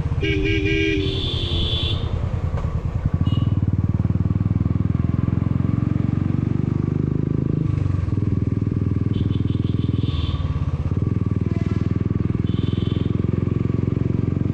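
Motorcycle engine running steadily under way, with a fine even pulse and a few brief higher-pitched tones over it. It is heard from a helmet-mounted camera.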